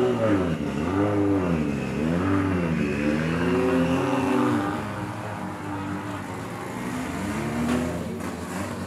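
A drift car's engine revved in about four quick swells, the pitch climbing and dropping back each time, then running lower and steadier with one smaller rise near the end.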